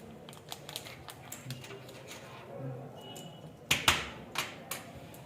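Light clicks and rustling as a new smartphone and its packaging are handled, with a few sharper, louder clicks a little before the end.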